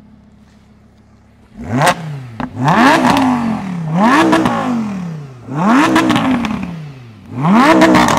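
Lamborghini Huracán Spyder's naturally aspirated 5.2-litre V10 idling low, then blipped five times about a second and a half apart, each rev climbing sharply and falling back toward idle.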